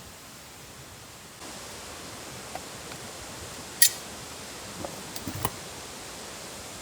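Steady outdoor hiss that rises a little about a second and a half in, with one sharp click a little under four seconds in and a few lighter ticks about a second later.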